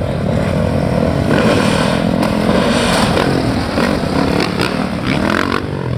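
Dirt bike engine revving up and down as the motocross bike is ridden for a jump off a truck, with a few sharp knocks in the second half.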